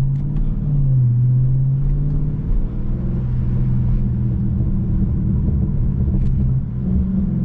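Dodge Charger Scat Pack's 392 Hemi V8 running steadily with a low exhaust drone, its pitch shifting only slightly. No clear exhaust pop is heard.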